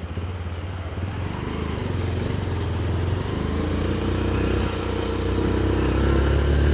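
A motor vehicle's engine running steadily with a low hum, growing gradually louder.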